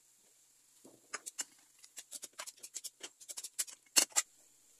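Beef slices in sauce popping and spattering in a hot pan: irregular sharp pops, several a second, starting about a second in and loudest near the end.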